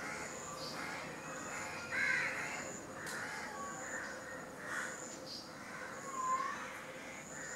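Birds calling outdoors: a few short calls, the loudest about two seconds in and again about six seconds in, over a faint high chirp repeating about once a second.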